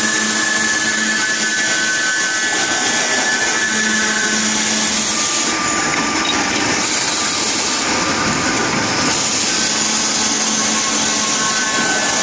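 LYJ 70 circular high-speed cutoff saw running and cutting pipe: a steady, loud machine noise with high tones that fade in and out.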